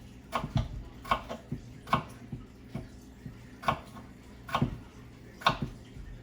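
A kitchen knife knocking on a cutting board while cutting vegetables: about ten sharp knocks at an uneven pace, some in quick pairs, with long gaps between others.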